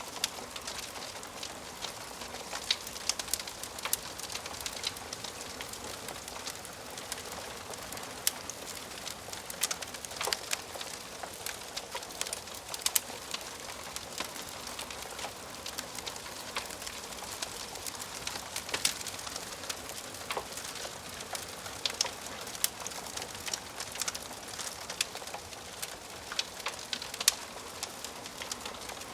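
Wood fire crackling in a fireplace: irregular sharp snaps and pops over a steady soft hiss.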